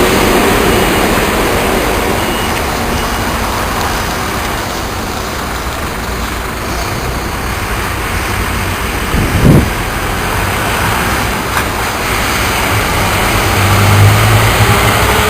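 Scania K310 coach's diesel engine running amid road traffic noise, with one short loud burst about nine and a half seconds in and a low engine note swelling near the end.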